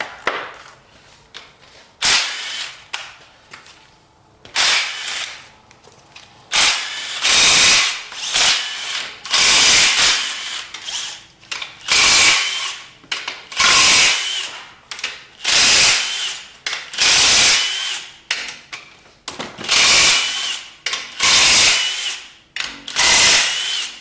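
Cordless power wrench run in about a dozen short bursts, each about a second long with a wavering motor whine, loosening the main-cap bolts of a 5.3 LS V8 block.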